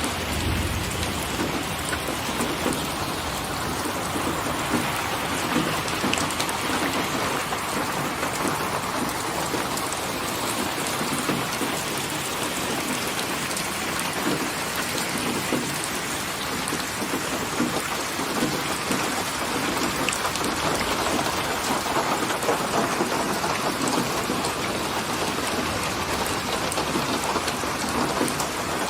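Steady heavy rain falling as a dense, even hiss, with a brief low rumble of thunder just after the start.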